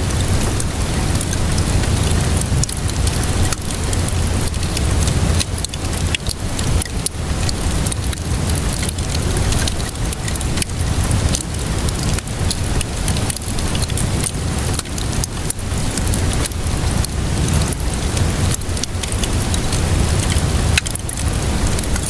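Wood fire crackling with frequent sharp pops, layered over steady rain and a low rumble.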